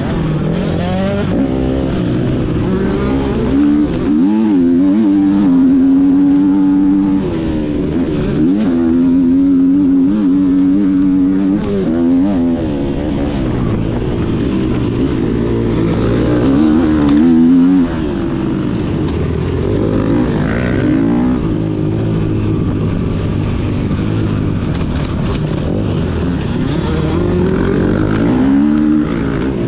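Motocross bike engine being ridden hard, its revs climbing and dropping again and again through acceleration, shifts and throttle-offs.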